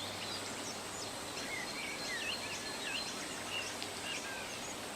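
Forest ambience: a steady hiss under many small birds chirping and whistling, with short rising and falling calls overlapping one another.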